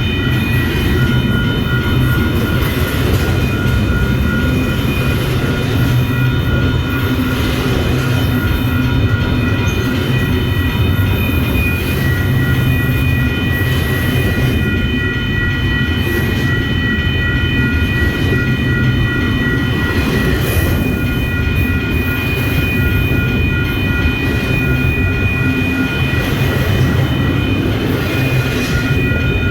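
A train rolling past at close range: a continuous rumble of wheels on rail, with a steady high-pitched whine over it.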